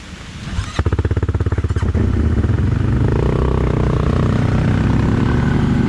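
CFMoto 1000 ATV's V-twin engine running with an even firing pulse, coming in suddenly about a second in, getting louder near two seconds and revving higher from about three seconds.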